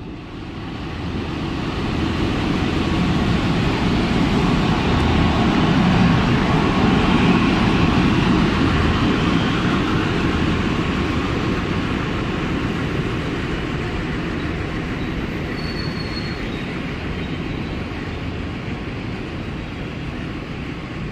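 Indian Railways express train of coaches hauled by a diesel locomotive passing along a platform. A dense, steady rumble of wheels on rail builds over the first few seconds, is loudest around six to eight seconds in, then slowly eases. A brief high wheel squeal comes about fifteen seconds in.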